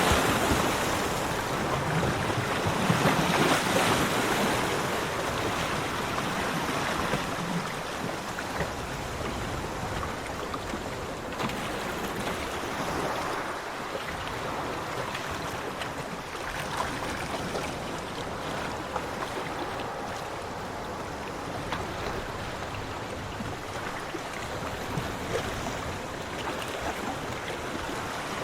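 Ocean waves breaking on a beach: a louder surge of surf in the first few seconds, then a steady wash of water.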